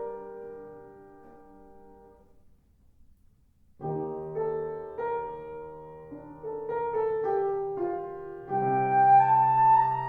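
Solo piano playing sustained chords that die away into a brief pause, then resume with new chords; about eight seconds in the music swells and a flute joins with a held high note.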